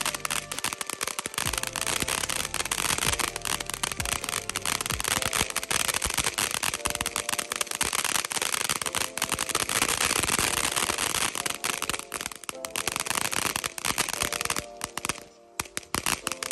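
Freedom Fireworks Majestic Momma 500 gram fountain burning with a dense, continuous crackle, many sharp pops a second, easing off briefly near the end before picking up again.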